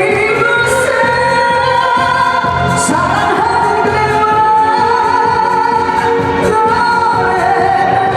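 A woman singing long held notes over a backing track with a steady beat.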